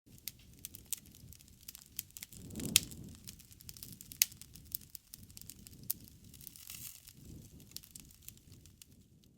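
Wood campfire crackling: scattered sharp pops, the loudest about three seconds in and again a second later, over a low rush of burning flame that swells a few times.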